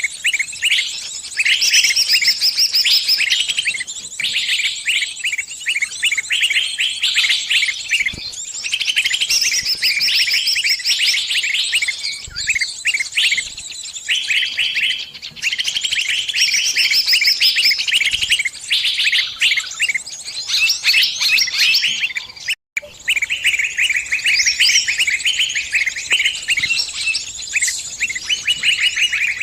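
Distress calls of a trapped songbird: dense, rapid, high-pitched chirping and twittering without let-up, breaking off for a split second about two-thirds of the way through.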